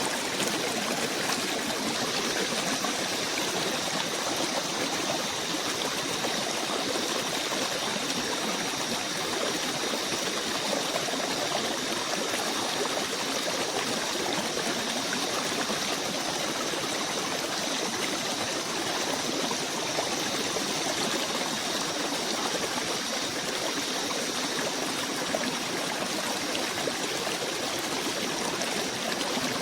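A small stream running steadily, an even wash of flowing water with a faint steady high hiss over it.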